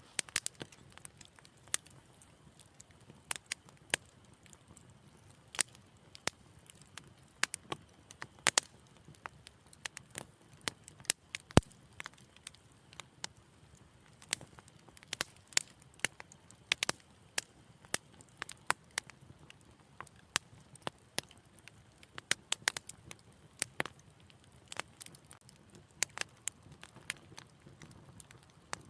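Wood fire crackling in a fireplace: irregular small pops and snaps over a faint low hiss, with one sharper pop near the middle.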